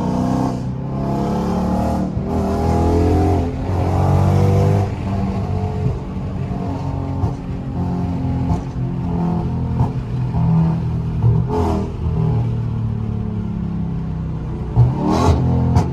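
Straight-piped 6.4-litre 392 HEMI V8 of a Dodge Charger Scat Pack, running loud under throttle. It revs up and down in the first few seconds, then settles to a steadier run, with a few short sharp cracks near the end.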